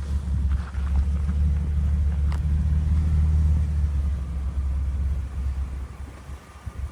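A Jeep's engine running with a low rumble, loudest for the first four seconds or so and then easing off.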